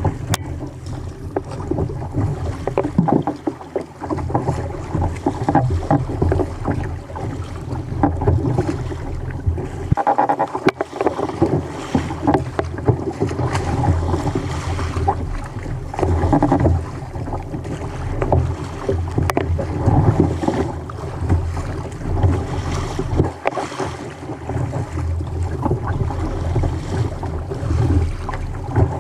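Choppy sea water sloshing and slapping against a fishing kayak's hull, with wind buffeting the microphone; the level rises and falls unevenly.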